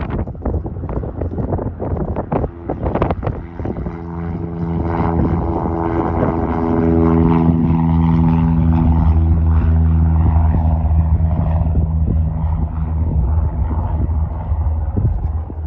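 A propeller-driven light airplane's piston engine drones past with a steady, humming tone. It grows louder for several seconds, then fades away. In the first few seconds, wind buffets the microphone.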